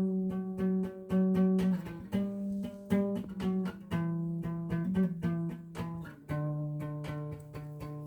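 Guitar music: plucked notes picked several to a second over a low bass line that changes every second or two.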